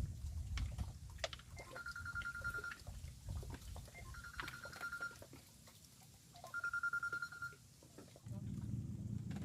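An electronic, phone-like tone sounds three times, each time about a second long and a little over two seconds apart, with small clicks between. A steady low rumble starts near the end.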